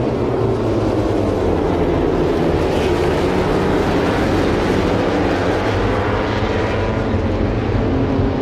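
Motor vehicle engine running steadily and loudly, with a dense mechanical noise and a slight rise and fall in pitch.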